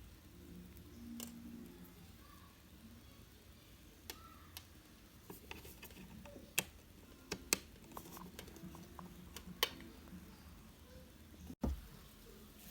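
Scattered light clicks and taps over faint room tone, with a few sharper ticks in the middle.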